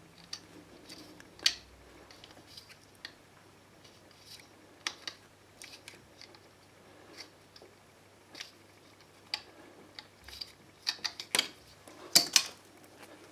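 Scattered small clicks and crinkles of PTFE plumbing tape being wound onto a stopcock's thread, with a louder cluster of clicks near the end.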